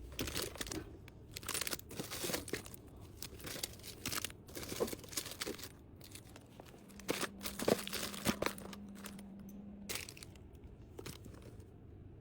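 Crinkly plastic packaging rustling and crackling in irregular bursts as items are handled and packed.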